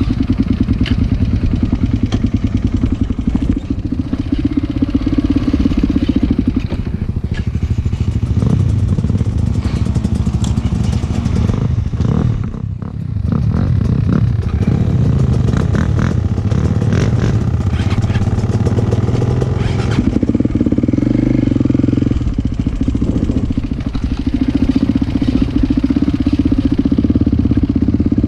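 Motocross motorcycle engines running loudly, the engine note shifting up and down now and then, with a brief drop in loudness about twelve seconds in.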